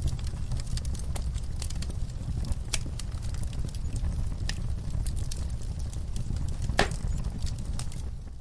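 Wood fire burning in a fireplace: a steady low rumble with frequent sharp crackles and snaps from the logs, and one louder pop near the end.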